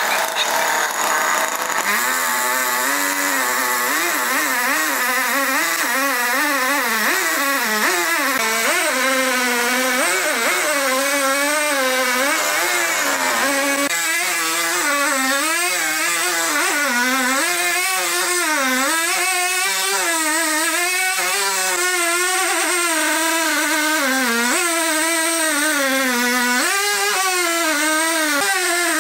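A sawmill machine's motor running continuously, its pitch repeatedly dipping and rising again as it takes and sheds load.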